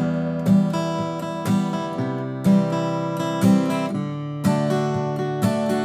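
Guitar strummed in a steady campfire rhythm, with the registers kept apart: single bass notes, accented strums on the middle strings on the backbeat and light upstrokes on the high strings only. Strong strokes fall about once a second, with lighter ones between, and the chord changes about four seconds in.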